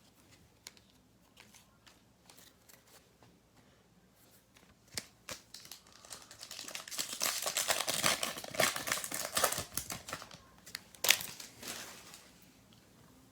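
Near silence at first, then a foil trading-card pack being torn open and its wrapper crinkled from about five seconds in, with a sharp crackle near the end.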